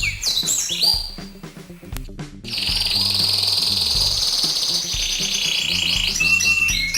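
Recorded bird-lure calls: quick high chirps, a brief lull, then from about two and a half seconds in a long, buzzy, high trill that breaks into rapid repeated chirps near the end, over a low repeating beat.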